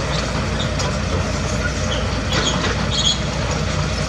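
Heavy tracked construction machine's diesel engine running steadily, with short metallic squeaks and clanks scattered through it, such as crawler tracks and steel parts working.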